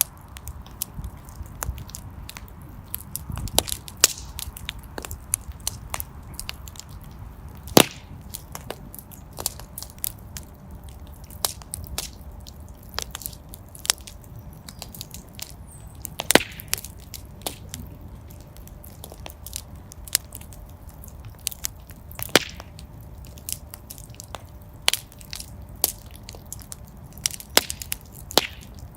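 Wood fire crackling in a fireplace: a low steady rumble of flame with irregular sharp snaps and pops, a few louder ones standing out at about 8, 16 and 22 seconds in.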